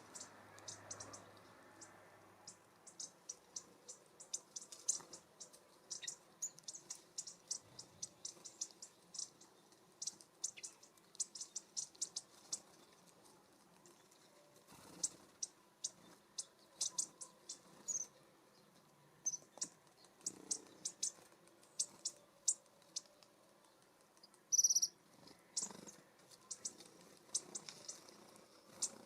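Small songbirds calling with many short, high, thin chips and chirps in quick scattered runs, with one louder sliding call near the end.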